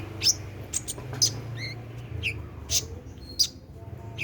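Brown-throated sunbird (kolibri ninja) singing: a quick run of sharp, high chirps and short downward-sliding notes, over a low steady hum.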